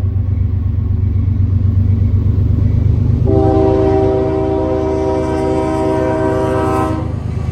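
Diesel locomotive horn sounding one long blast of about four seconds, starting a few seconds in, over the steady low rumble of the passing train's engine: part of the horn warning for a road grade crossing.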